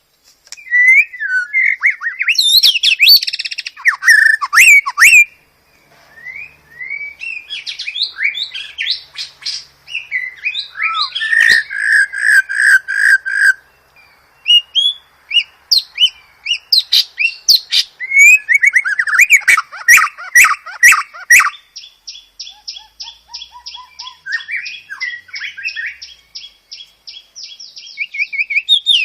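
Songbird singing a fast, varied song of whistled phrases, slurs and chattering notes broken by sharp clicks; in the second half it runs into a long rapid trill of evenly repeated notes.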